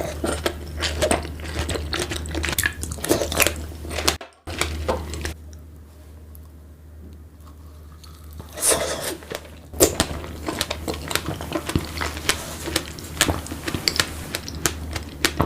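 Close-miked biting and chewing of fresh strawberries with whipped cream and Nutella: a run of irregular crunches and mouth sounds, broken by a brief cut-out a little over four seconds in and a quieter stretch in the middle before the bites pick up again.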